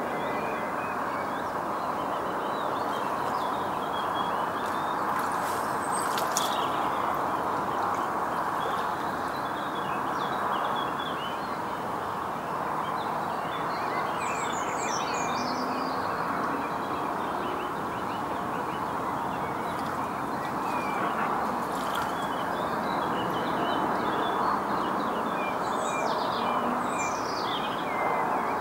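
Small birds chirping and twittering on and off over a steady rushing background noise, with a couple of brief clicks about a third of the way in and again near three quarters.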